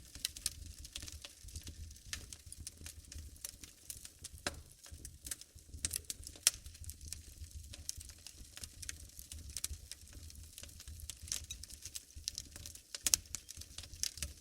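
Wood fire burning in a fireplace, crackling with quick irregular pops and snaps, a few of them louder, over a steady low rumble.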